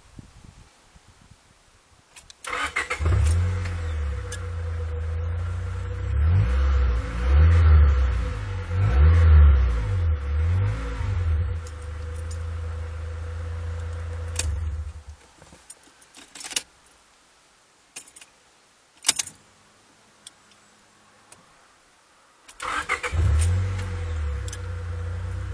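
Honda Prelude's 2.0-litre four-cylinder engine starting quickly about two seconds in, revved a few times, idling, then switched off; a few clicks follow, and it starts again near the end. The car has an intermittent no-start fault, but here it fires each time.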